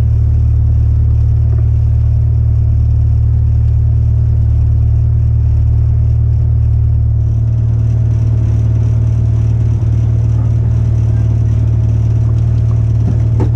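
Citroën ZX rally car's four-cylinder engine idling steadily with a loud, deep hum, heard from inside the stripped cabin.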